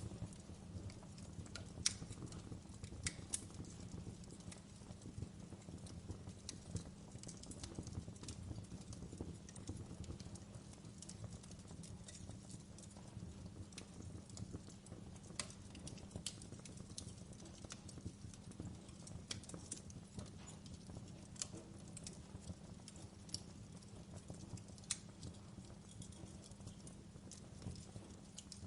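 Wood fire burning in a fireplace: irregular crackles and pops over a low steady rumble of the flames, with a sharper pop about two seconds in.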